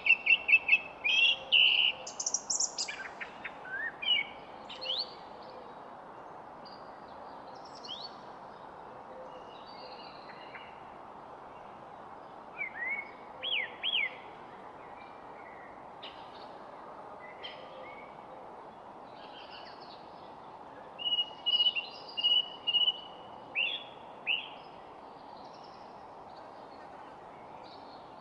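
Several songbirds chirping and whistling in short bursts of quick rising and falling notes, busiest in the first few seconds and again past the middle, over a steady background hiss.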